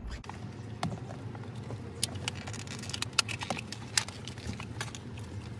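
Irregular sharp clicks and taps, as of hands working and prying at a plastic trim piece on a car's steering wheel, over a low steady hum.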